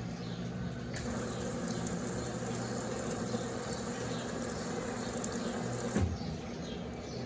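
Water rushing into the tub of a Brastemp Eggo 1 kg mini washing machine as it fills. The hiss starts suddenly about a second in and cuts off suddenly about five seconds later with a short thump.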